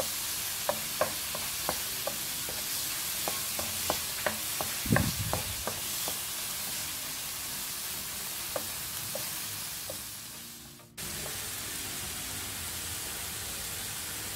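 Chicken pieces sizzling in hot oil in a pan as they are stir-fried, with sharp clicks of a wooden spatula against the pan, most frequent in the first half. The sizzle fades about eleven seconds in, cuts off abruptly, then resumes at a steady level.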